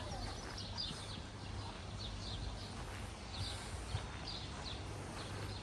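Small birds chirping repeatedly in short, quick, falling notes over a low steady hum.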